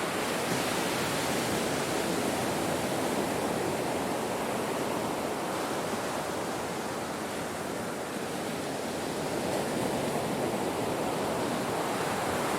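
Ocean surf washing on a shore: a steady, dense roar of water with a slight ebb and swell in loudness.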